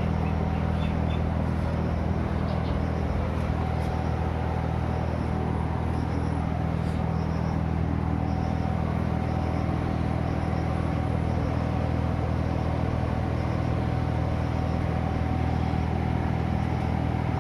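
Large 52-inch exhaust fan running at a steady speed: a constant low hum with a faint thin whine above it.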